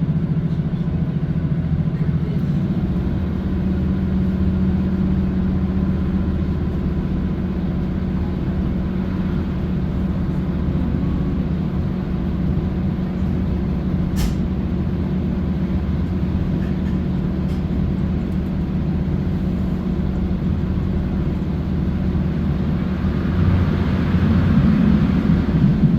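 Steady drone and rumble of a diesel multiple-unit train running, heard from inside the carriage. There is a single sharp click about 14 seconds in, and the noise swells near the end.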